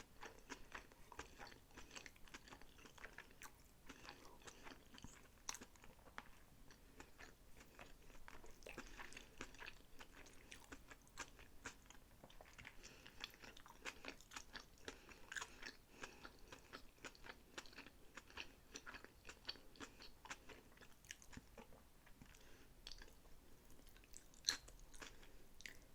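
Close-miked chewing of sushi, with many short mouth clicks and smacks throughout; one sharper click near the end.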